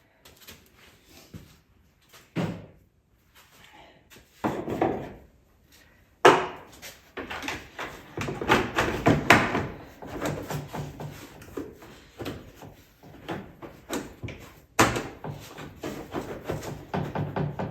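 Knocks and clattering of parts and tools being handled during ATV repair work: two isolated knocks in the first five seconds, then a sharp knock about six seconds in followed by continued rattling, and another sharp knock near fifteen seconds.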